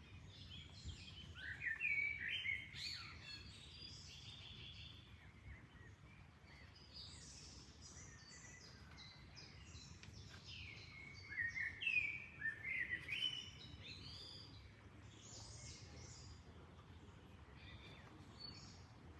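Songbirds chirping in quick runs of short, high, stepped notes, loudest about two seconds in and again around eleven to thirteen seconds in, over a faint, steady low background noise.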